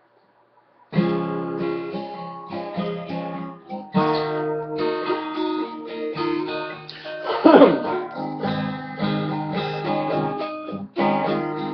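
Acoustic guitar strummed as an instrumental intro, starting about a second in. New chords are struck roughly every three seconds, and the loudest stroke comes just past the middle.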